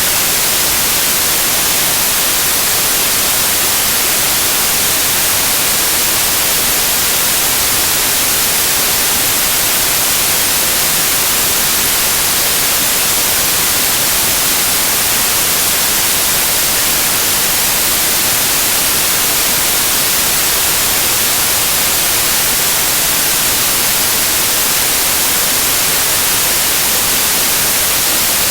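Loud, steady white noise: an even, unchanging hiss, strongest in the treble.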